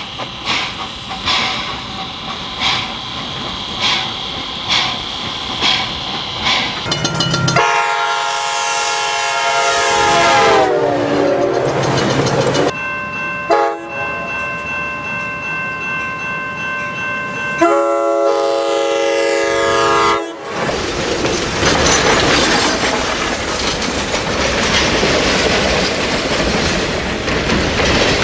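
Recorded sound of a real train: wheels clicking evenly over rail joints, then several long air-horn blasts, the first sliding down in pitch at its end. Then the loud rushing rumble of the train passing.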